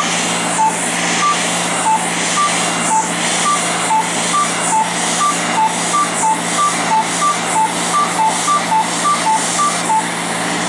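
Fraxel laser handpiece beeping as it fires along the skin: short electronic beeps alternating between two pitches, speeding up from under two to over three a second. Under them runs the steady hiss of the cold-air chiller hose blowing on the skin.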